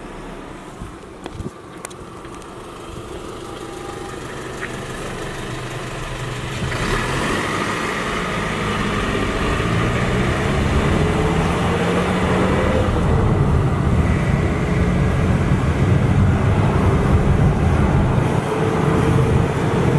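Car engine and road noise heard from inside the car: quiet cruising at first, then from about seven seconds in the engine and tyre noise grows louder and the engine note climbs as the car picks up speed, rising again near the end.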